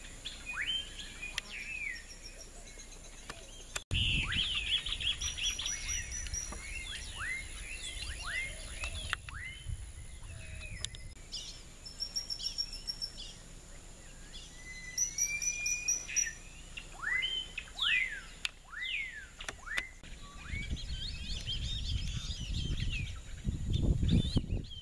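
Wild birds chirping and whistling, many overlapping short calls that sweep quickly downward in pitch. The sound changes abruptly about four seconds in, and a low rumble rises near the end.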